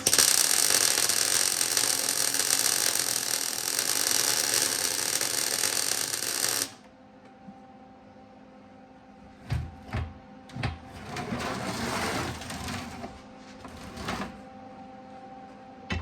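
A welding arc crackling and hissing steadily for about six and a half seconds, then cutting off sharply. A few sharp knocks and a rougher stretch of handling noise follow.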